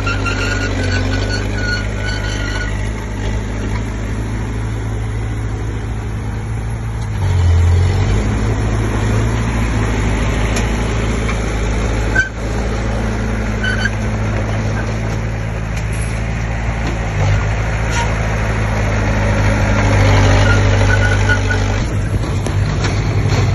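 Komatsu D20P bulldozer's diesel engine running steadily while working, growing louder about a third of the way in and again near the end, with one sharp knock about halfway through.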